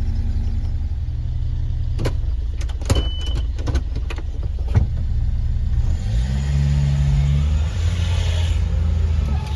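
Subaru Sambar mini truck's supercharged engine idling steadily. A few sharp clicks come in the first half, with a short high beep among them. About six seconds in, the engine is revved up, held for a second or so, and settles back to idle.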